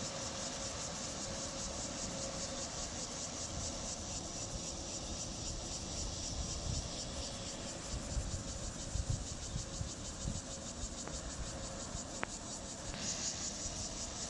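Rice combine harvester running steadily: an even machinery drone with a constant high whir, a few low rumbles in the middle, and the high whir growing louder about a second before the end.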